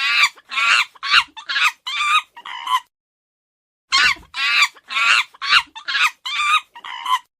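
Chicken clucking: two runs of about seven short clucks each, with a pause of about a second between them, the second run repeating the first.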